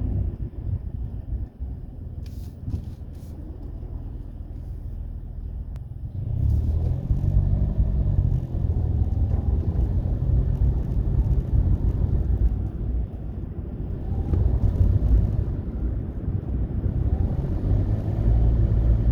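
Mitsubishi Mirage driving with a steady low road and engine rumble that grows louder about six seconds in. Around eight seconds in comes the intermittent brake noise, like something being turned on and off, then a metal-to-metal sound.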